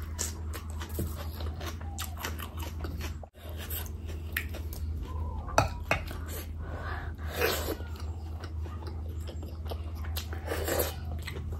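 Close-miked chewing and wet mouth sounds of a person eating bhatura soaked in mutton curry, with many short clicks and one sharper click about halfway, over a steady low hum.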